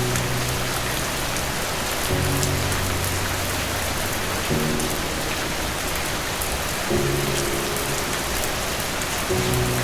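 Steady rain falling, a dense even hiss. Soft, low music notes sound about every two and a half seconds over it.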